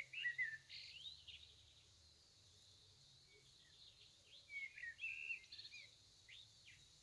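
Faint bird chirps and short song phrases, a cluster about a second in and another from roughly four and a half to six and a half seconds in, over quiet room tone.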